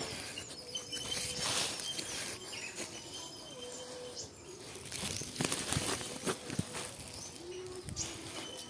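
Irregular rustling and steps on dry field ground and vegetation during a walk, with faint bird calls in the background.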